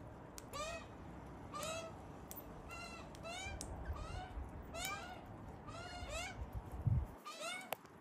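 A bird calling over and over, a short call that rises and falls in pitch, about once a second. A low background rumble stops about seven seconds in.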